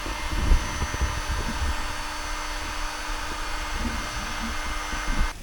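Small electric air pump running with a steady whirring hum as it blows air into an inflatable lounger, switching off abruptly near the end.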